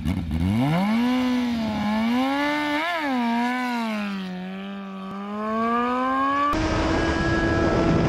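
Suzuki GSX-R1000 inline-four engine revving hard as the sportbike pulls away, its pitch climbing quickly, wavering with a sharp blip about three seconds in, then rising steadily. Near the end the sound cuts abruptly to a steady high engine note with wind rush from riding at speed.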